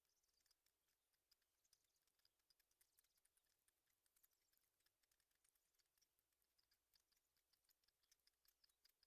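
Near silence, with faint scattered clicks and brief high ticks.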